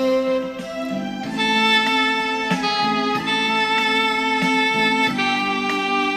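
Roland Aerophone digital wind instrument playing a slow melody in a saxophone-like tone, in long held notes that change pitch about a second in and again near the end. A backing track with plucked, guitar-like strokes keeps a steady beat underneath.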